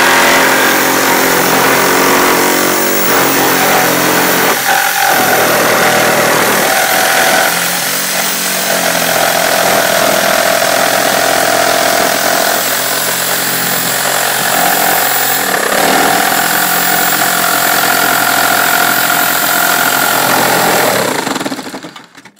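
Reciprocating saw cutting through wood, running loud and steady with its pitch shifting several times as the load on the blade changes; it cuts off near the end.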